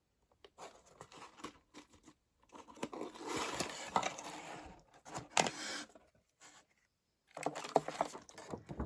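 Packaging of a subscription box being opened and handled: paper tearing and crinkling, with scattered clicks and taps. A longer stretch of rustling in the middle, and another short burst near the end.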